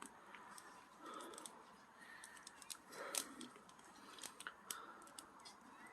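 Faint wood fire crackling: scattered small pops and clicks at irregular intervals.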